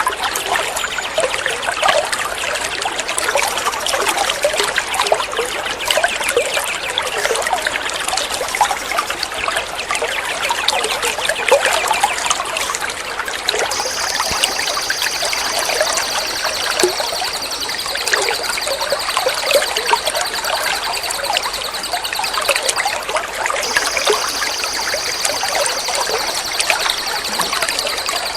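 Water trickling and splashing steadily. About halfway through a steady high-pitched trill comes in and keeps going, broken briefly near the end.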